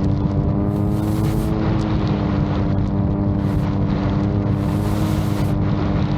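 VTOL drone's propellers running with a steady, even drone, the pitch wavering slightly about a second in. Gusts of wind buffet the microphone in bursts.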